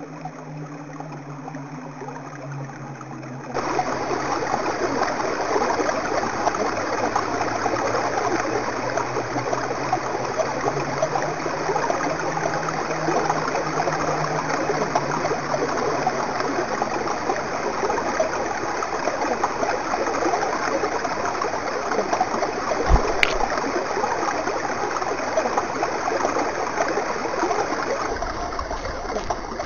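Stream rushing steadily, the water sound cutting in suddenly a few seconds in after a quieter low hum. A single sharp click about three quarters of the way through.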